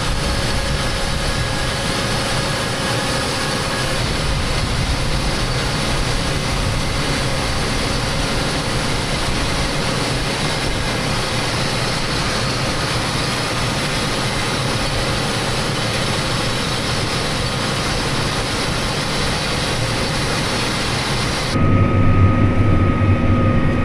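Tractor and round baler running steadily at work, a constant mechanical drone. About twenty-two seconds in, the sound switches abruptly to a lower, heavier engine drone.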